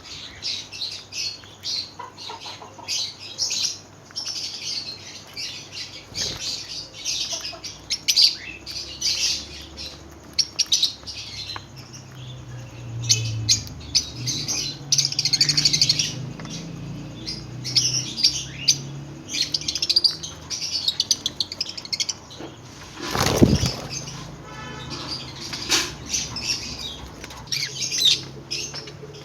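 Pet lovebirds chirping and chattering together: a dense run of short, shrill chirps throughout, with one brief louder burst of noise about 23 seconds in.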